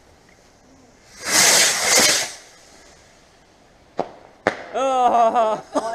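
A cheap consumer firework going off: a loud hissing rush lasting just over a second, starting about a second in. A sharp crack comes about four seconds in.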